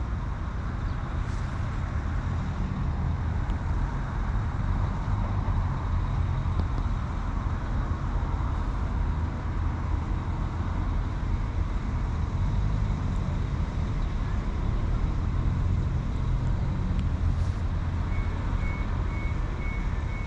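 Northern class 195 diesel multiple unit's underfloor diesel engines running with a steady low rumble at the platform. Near the end a run of short electronic beeps sounds, the door-release warning as the doors open for passengers.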